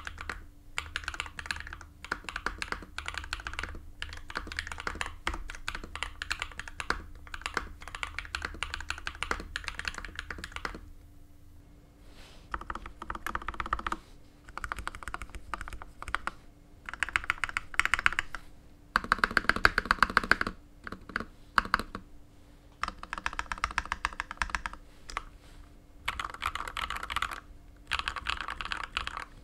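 Typing on a DA Meca 6 Plus mechanical keyboard with lubed KTT Pink Peach linear switches and a PE-foam mod: fast runs of keystrokes in bursts of a few seconds with short pauses between. The burst about two-thirds of the way through is the loudest.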